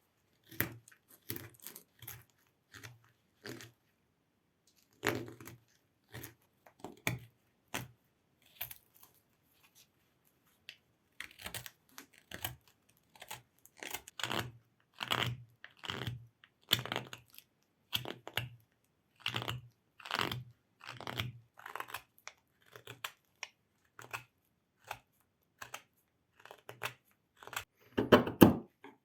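Hand carving tool cutting into hard jatoba wood: a series of short cuts at irregular intervals, with brief pauses between them. The loudest cuts come near the end.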